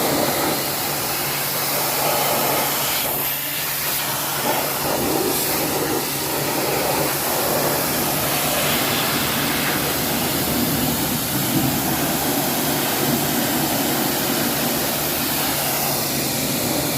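Home-built 2000 psi high-pressure washer running steadily, its motor humming under a continuous hiss of the water jet spraying.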